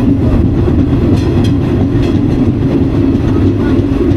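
Uganda Railways metre-gauge passenger train running, heard from inside the carriage: a loud, steady rumble of wheels on the rails, with a few faint clicks from the track about a second in.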